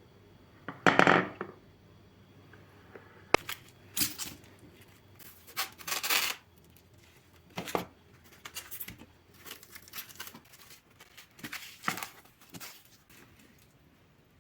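A run of short scraping or tearing noises, about eight separate bursts, with one sharp click a little over three seconds in: hands handling something.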